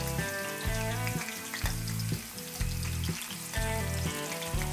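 Flour-coated prawns frying in hot oil with a steady sizzle as they are turned over in the pan. Background music with a repeating bass line plays underneath.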